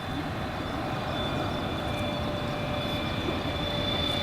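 Jet airliner's engines growing slowly louder as it approaches, a steady high whine over a rushing noise.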